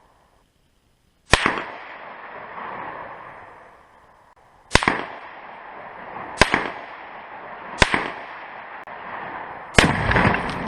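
Five single rifle shots, a second or more apart, fired at a binary exploding target. Each is a sharp crack with an echo trailing after it, and a longer low rumble follows the last one near the end.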